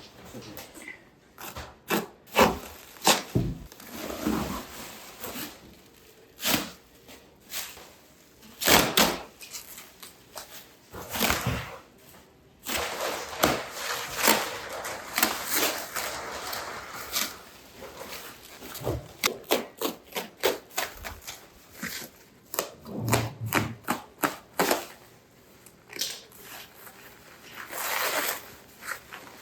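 Equipment being handled and unpacked: irregular knocks, clicks and clatters, with a few seconds of steadier scraping or rustling noise midway.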